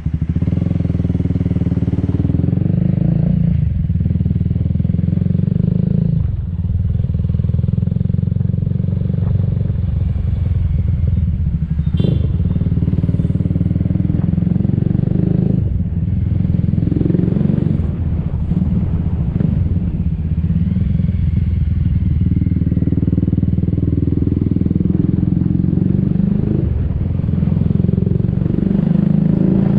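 Motor scooter engine running while riding in traffic, its note rising and falling with the throttle. A brief sharp click comes about twelve seconds in.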